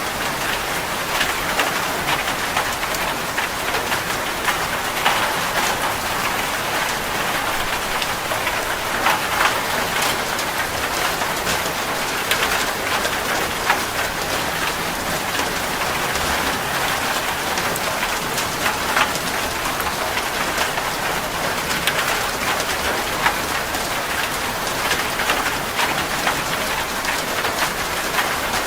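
Steady rain falling and pattering on a surface, with many individual drop ticks through a continuous hiss.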